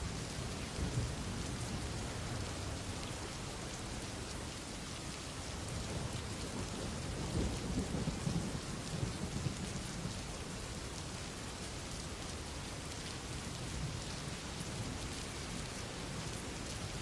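Steady rain falling, with a low rumble swelling up around the middle and fading again.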